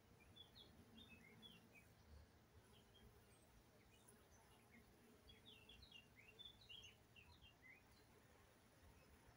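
Faint chirping of small birds over near silence: a few quick high notes in the first couple of seconds, and a longer flurry around the middle.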